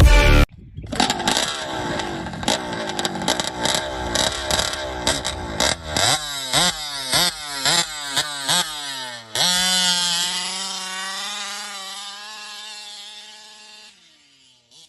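A vehicle engine revved in quick repeated blips, each a rising whine, with sharp cracks among them. About nine seconds in it holds one high note that slowly falls and fades away.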